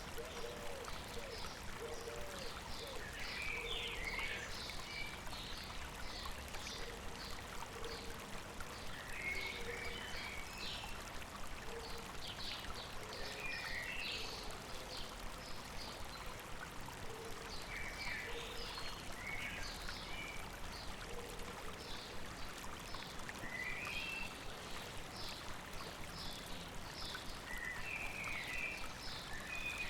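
Stream water running steadily, with birds singing over it in short phrases of high chirps every few seconds, and lower short calls between them.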